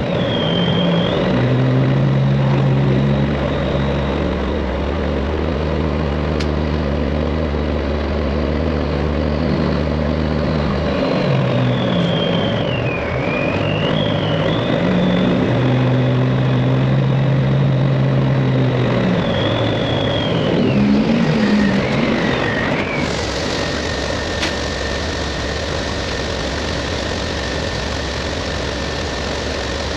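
Straight-piped Peterbilt 389 diesel engine running at low revs, with a steady low hum. A high whine wanders up and down over it, then settles into a steady tone about two-thirds of the way through.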